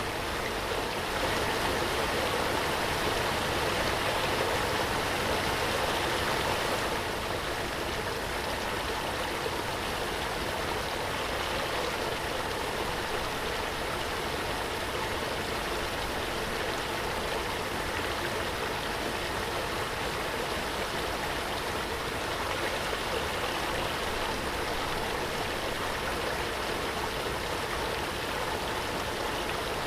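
Waterfall: a steady rush of falling water, a little louder from about one second in to about seven seconds in.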